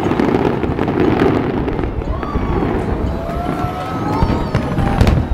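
Fireworks display going off: continuous rumbling booms and crackling, with long whistling tones through the middle and a sharp loud bang near the end.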